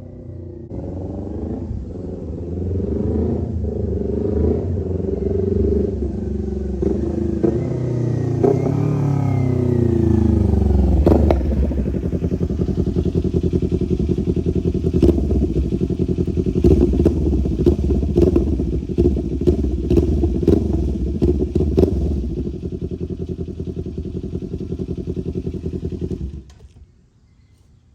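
Kawasaki Ninja 400's parallel-twin engine through an Austin Racing straight-piped exhaust, revving up and down through gear changes, then running steadier with crackling pops from the exhaust. The sound cuts off near the end.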